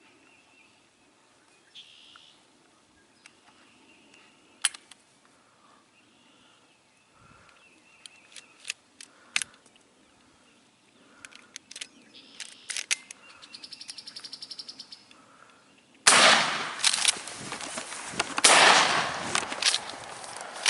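Shotgun fired at a wild turkey: two loud shots about two and a half seconds apart, with loud noise carrying on after them. Before the shots, faint birdsong and a few small sharp clicks.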